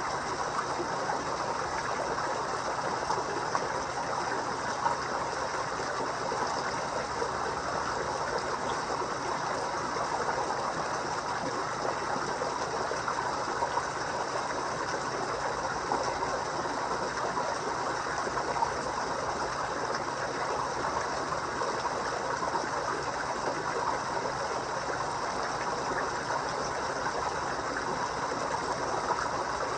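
Pond water trickling and splashing steadily, with a few brief louder splashes.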